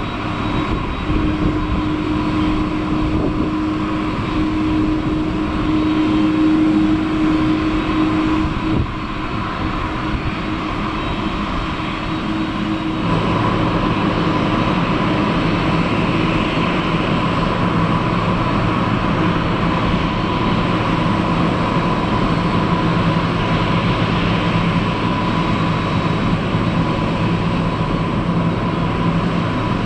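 Jet engines of a Boeing 767-300ER airliner, GE CF6-80C2 turbofans, running with a steady roar and held whining tones. About halfway through, the engine note changes pitch and the sound gets a little louder.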